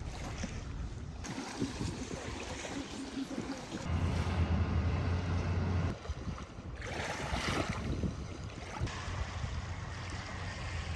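Riverside ambience: wind rushing on the microphone over the wash of water at the river's edge, with a low steady hum from about 4 to 6 s and a brief louder surge of noise around 7 s.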